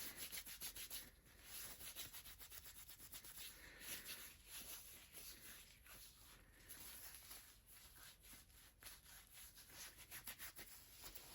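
Faint, quick rubbing strokes of hands massaging bare feet, skin rubbing on skin close to the microphone, in an uneven run.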